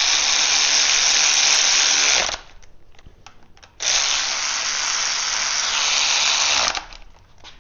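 Power drill or driver running in two bursts, one of about two seconds and a longer one of about three seconds, running down the thermostat housing bolts.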